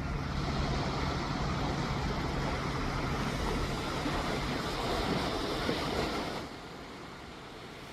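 A steady rushing noise with no distinct events, dropping abruptly to a quieter hiss about six and a half seconds in.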